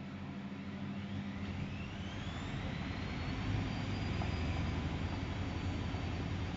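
Zanussi Jetsystem Turbodry ZWD 1000 washer-dryer's motor speeding up, a whine rising in pitch over a couple of seconds and then holding steady as the drum spins up, with a deepening hum and growing loudness.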